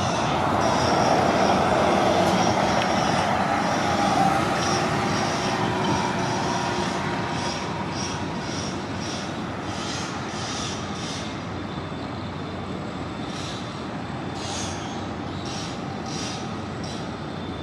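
City transit bus running past, loudest in the first few seconds and then slowly fading, with thin high-pitched squeals riding over the engine noise.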